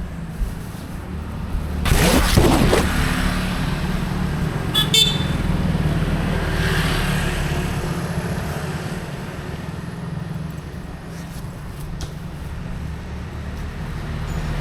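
Road traffic with vehicle engines running steadily. A vehicle passes loudly about two seconds in, and a short horn toot sounds about five seconds in.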